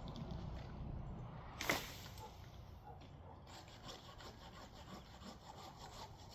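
Hand saw cutting a tree limb in fast, even strokes that start about halfway through, preceded by one sharp crack.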